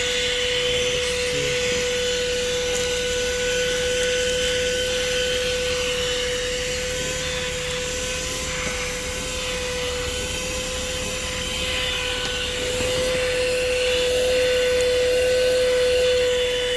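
Corded car vacuum cleaner running steadily, its motor giving a steady whine at one pitch over the rush of air, getting a little louder near the end.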